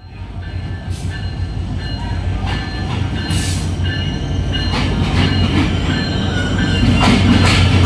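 Diesel locomotive arriving slowly, its engine drone growing steadily louder as it approaches, with thin high metallic squeals and several short clanks from the wheels on the track.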